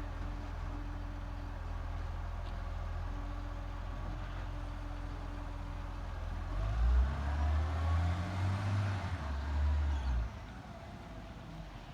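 Garbage truck engine running steadily, then revving louder with a rising and falling whine for about four seconds from just past the middle, before dropping back to a lower, steady hum near the end.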